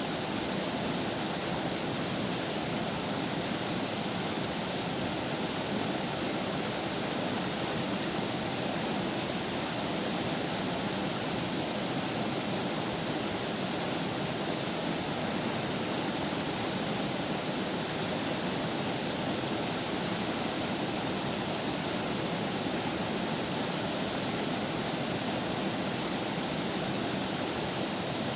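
Running river water: a steady, unbroken rush of flowing water with a hissy top.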